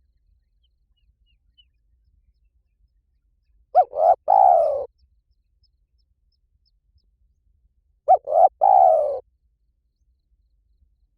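Spotted dove cooing: two three-note phrases about four seconds apart, each a short note, a second short note and a longer drawn-out coo.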